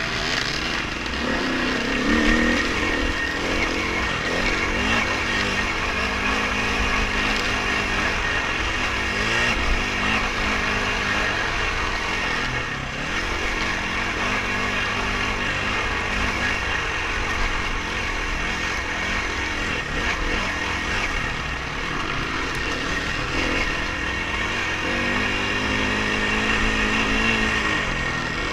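Dirt bike engine running under riding load, its pitch rising and falling as the throttle opens and closes, with a steady hiss of noise underneath.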